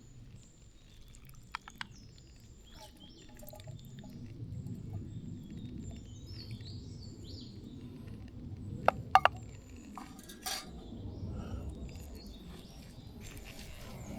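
Camp cookware clinking as it is handled: a few sharp metallic clinks, the two loudest close together about nine seconds in. Birds chirp throughout.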